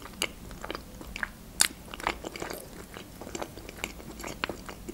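Close-up mouth sounds of a person chewing soft, creamy mushroom julienne: wet smacks and clicks at irregular moments.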